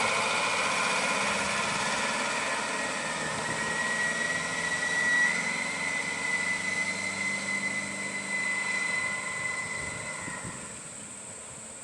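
A truck engine running, with a thin steady whine through the middle, then fading over the last couple of seconds.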